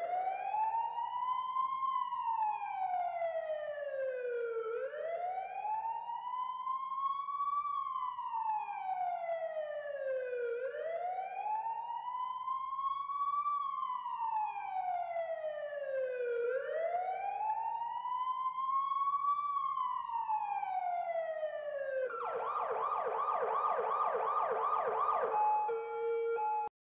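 Electronic emergency siren sounding a slow wail, rising and falling four times about every six seconds, then switching to a fast yelp for the last few seconds before cutting off.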